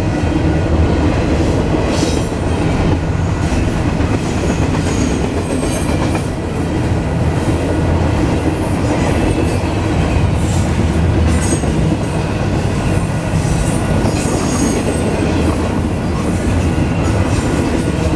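Double-stack container train of well cars rolling past at a grade crossing: a steady, loud rumble and clatter of steel wheels on the rails, with brief high-pitched wheel squeals now and then.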